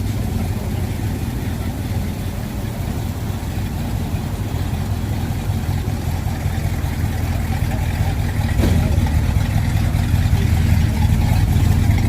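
Car engine idling steadily, a low, even hum that grows somewhat louder about two-thirds of the way through.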